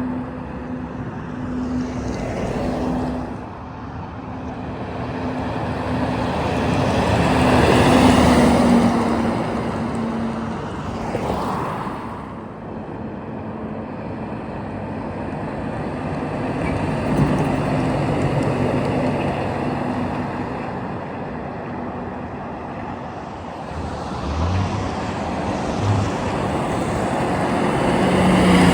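Road traffic, trucks and cars passing one after another, with a steady engine hum under tyre and road noise. The loudest pass swells to a peak about eight seconds in, with another shorter pass a few seconds later.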